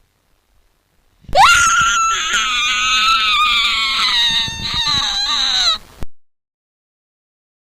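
A long, high-pitched scream sound effect lasting about four and a half seconds: it shoots up in pitch at the start, wavers, then slides slowly downward before cutting off.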